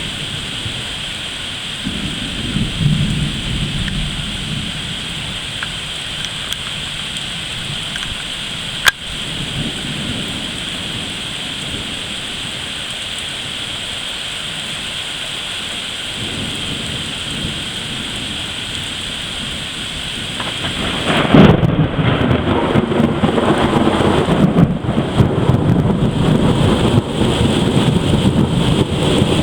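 Heavy rain falling steadily during a severe thunderstorm, with low rolls of thunder and a brief sharp tick about nine seconds in. About twenty-one seconds in, a close thunderclap cracks suddenly and rolls on as loud, lasting rumbling.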